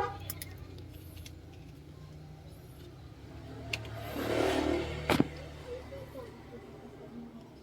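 Suzuki Multicab's F6A three-cylinder engine running at idle, a steady low hum that swells briefly about four to five seconds in, with a few light clicks.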